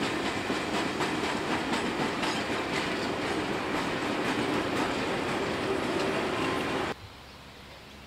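Train of passenger carriages rolling past close by: a steady rumble of wheels on rails with regular clicking over the rail joints. It cuts off abruptly near the end, leaving only a faint low hum.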